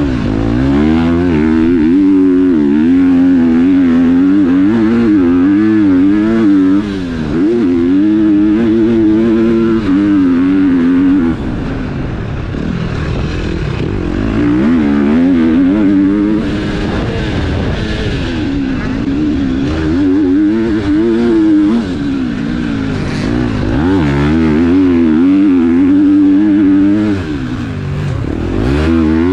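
Four-stroke KTM motocross bike engine being ridden hard, its pitch rising and falling with the throttle and gear changes. It drops off briefly several times, as the rider shuts the throttle between runs.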